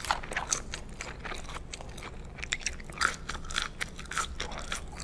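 Close-miked chewing of McDonald's French fries: a quick, irregular run of crunchy crackles and wet mouth clicks.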